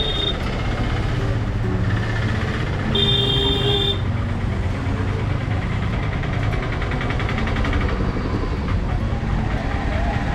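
Street traffic with engines running, and a vehicle horn sounding briefly at the start and again for about a second, a few seconds in.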